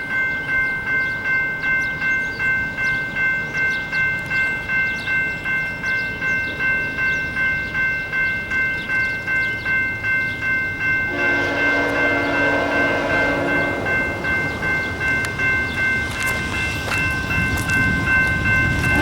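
A railroad grade-crossing bell ringing steadily at about two strikes a second, then about eleven seconds in an approaching Norfolk Southern locomotive's horn starts blowing, its chord sounding over the bell along with the growing rumble of the oncoming train.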